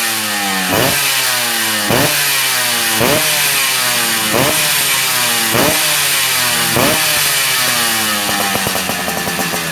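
Two-stroke motorcycle engine fitted with a racing exhaust, revved over and over at roughly one-second intervals. Each blip climbs quickly and then falls away slowly.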